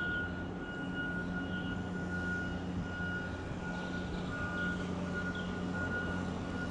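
Steady low hum of an idling vehicle engine, with a high-pitched tone coming and going over it.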